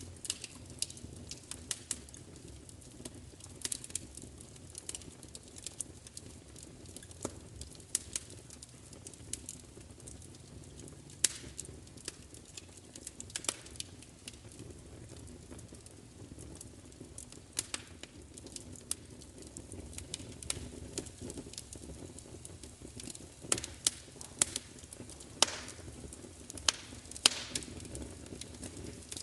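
Wood fire crackling: irregular sharp pops and snaps over a steady low rush of burning. The loudest pops come in a cluster near the end.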